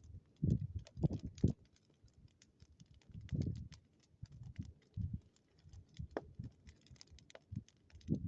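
Wood fire crackling with many small sharp pops, under irregular low thumps.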